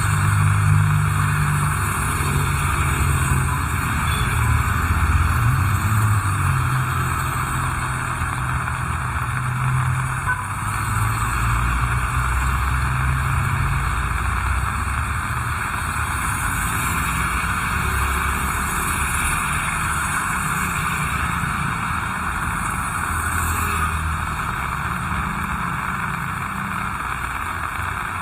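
Steady heavy rain hissing, with the low rumble of a motor vehicle's engine underneath that is strongest in the first half and then fades.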